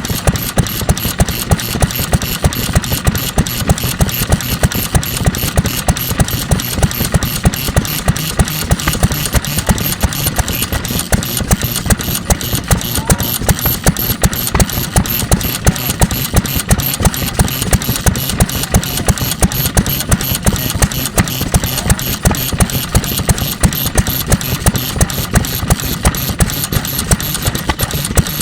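Single-cylinder NATIONAL Type FK 3 hp stationary engine from around 1948 running steadily, with a sharp firing beat about two to three times a second over the clatter of its valve gear and moving parts.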